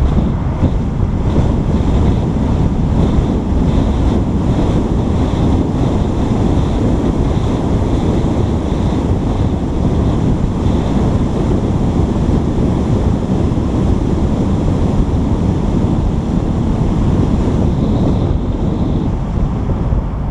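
Steady, heavy rumble of wind buffeting a GoPro microphone, with vehicle road noise beneath it. A faint high tone stops shortly before the end.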